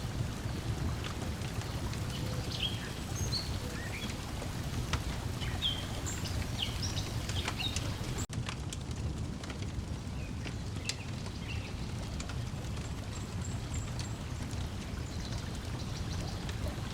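Layered lakeside ambience: a steady low wash of water lapping and breeze, with short bird chirps through the first half and scattered crackles from a wood fire. About 8 seconds in the sound dips for an instant, and after it the bird chirps mostly stop.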